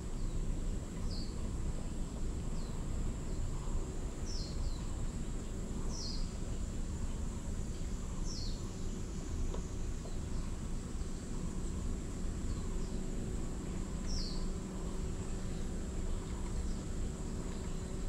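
Birds calling in short, high chirps that fall in pitch, repeated every second or two, over a steady high insect buzz and a low steady rumble.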